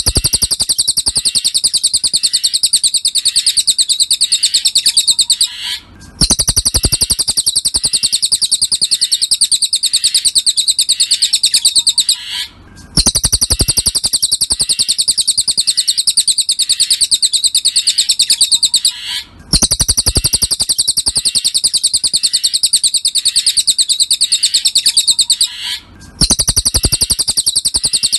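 Cililin songbird singing a rapid, high-pitched chirping trill. The trill comes in long phrases of about six seconds, each broken off by a short pause and then starting again, in a regular repeating pattern.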